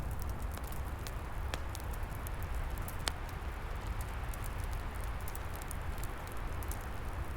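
Wood fire crackling, with many small pops and two sharper cracks about a second and a half and three seconds in, over a steady low rumble of wind.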